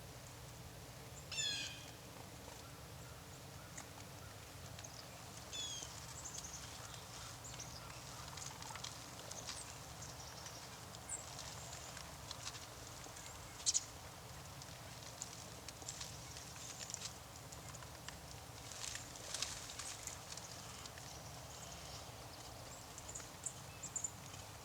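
Small winter songbirds (black-capped chickadees, tufted titmice and dark-eyed juncos) calling: a quick descending series of high notes about a second in and again near six seconds, then scattered short high chips and ticks, over a faint steady low background.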